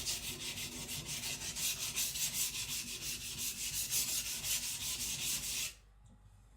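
Niolox-steel nakiri blade stroked rapidly back and forth on a whetstone, working the edge near the tip: an even, rasping rhythm of about four strokes a second that stops abruptly near the end.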